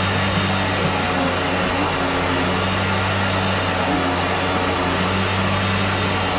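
A motor running steadily at constant speed, with a low hum and an even noise over it.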